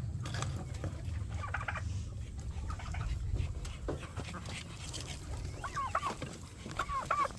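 Domestic chickens clucking at close range, with a few short calls near the end, over a steady low rumble and scattered light clicks.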